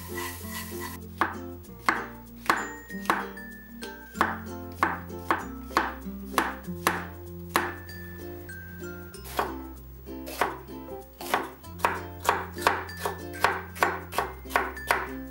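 Kitchen knife chopping vegetables (mushrooms and green bell pepper) on a wooden cutting board: sharp strikes in irregular runs, about two a second, starting about a second in. Background music with a steady bass line plays underneath.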